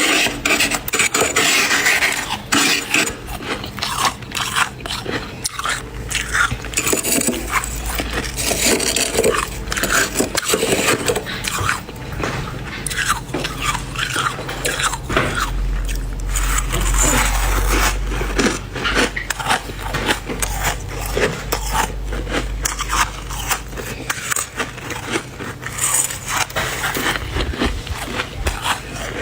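Dry, flaky deep-freezer frost being scraped up with a spoon and crunched in big bites, a squeaky, grainy scraping and crunching in dense, irregular strokes.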